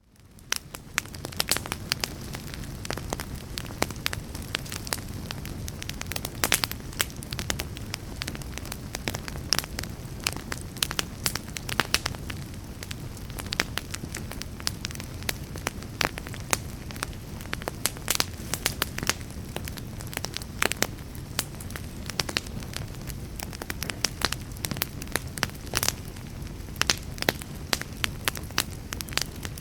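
Wood fire in a fireplace crackling, with frequent irregular sharp pops over a steady low background of burning. It fades in from silence over about the first second.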